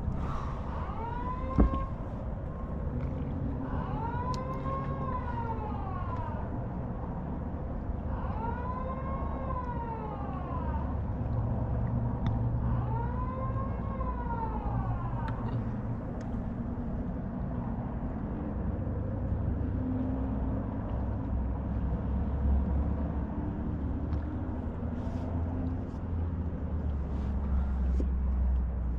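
An emergency vehicle siren wailing in slow rising-and-falling sweeps, four of them in the first half, over a steady low rumble. One sharp knock comes about a second and a half in.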